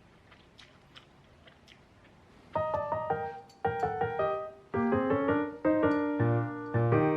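A few faint clicks, then background piano music starts about two and a half seconds in: bright chords and a melody in short phrases.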